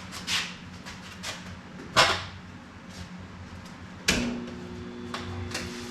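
Two clunks as a Lincoln AC225 transformer stick welder is handled, then its steady electrical hum starting suddenly about four seconds in as it is switched on, before any arc is struck.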